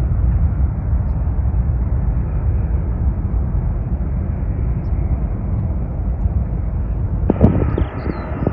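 Jet airliner engines running with a steady, deep rumble. About seven seconds in, the sound changes abruptly and a couple of sharp thumps are heard.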